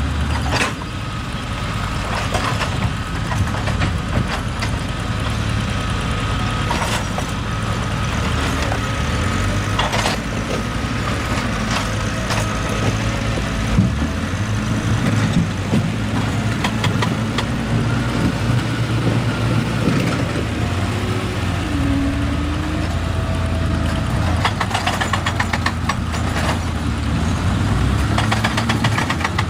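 Excavator's diesel engine running steadily, with scattered sharp knocks and, near the end, rapid runs of clicking and clattering as rock and metal strike.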